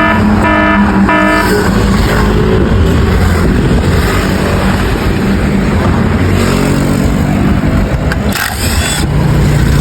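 Motor-scooter engine running, its pitch rising around six seconds in, with two short pitched tones near the start.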